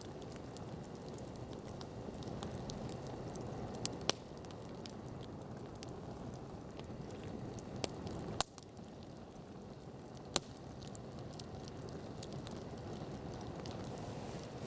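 Wood campfire burning, a steady rush of flame with scattered crackles and a few sharp pops, the loudest about four, eight and a half and ten seconds in.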